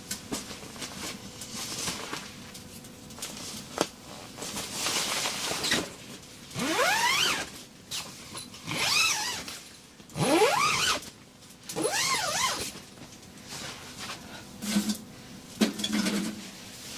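An animal calling: four loud squealing cries, each sweeping up and then down in pitch, a second or two apart.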